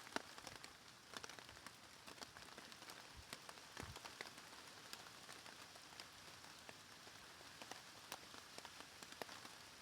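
Faint rain, with scattered separate drops tapping on a plastic tarp overhead.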